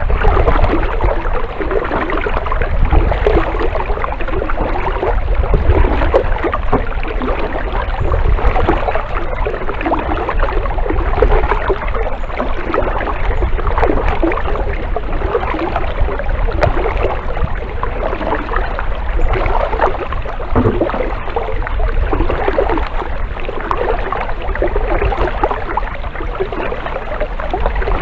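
Kayak paddling: water splashing and rushing around the paddle and hull, swelling with each stroke about every two to three seconds, over a steady low rumble.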